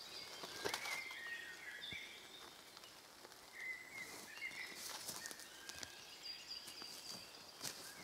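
Small birds singing in woodland: short warbling, chirping phrases and a thin, high whistled note, over faint background noise, with a few sharp clicks.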